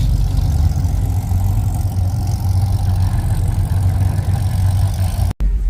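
Car engine running with a steady low idle rumble, cut off abruptly near the end.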